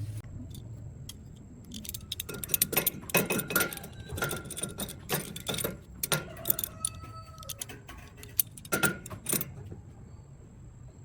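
Small metal objects clinking and rattling in a rapid, irregular series of knocks, some leaving a short ringing note. The clinking starts about two seconds in and stops a second or two before the end.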